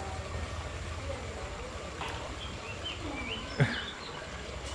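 Small birds chirping in short calls that slide up and down in pitch, with one sudden loud thump about three and a half seconds in.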